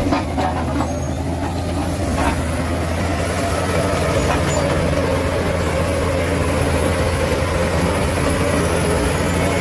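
Bulldozer's heavy diesel engine running steadily under load, with a faint knock or two from the machine.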